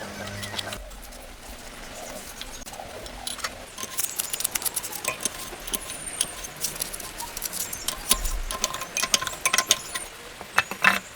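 Irregular light clicks and clinks of small metal parts and tools being handled, growing busier from about three seconds in. A low hum cuts off within the first second.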